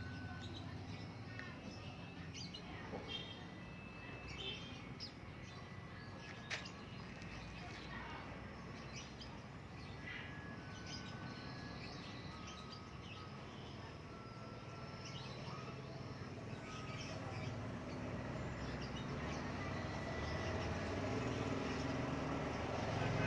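Outdoor background with scattered short bird chirps and whistled notes over a low steady rumble that grows louder near the end.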